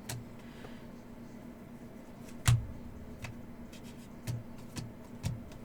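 Trading cards and packs being handled on a table, with a few light taps and clicks, the loudest about two and a half seconds in, over a steady low hum.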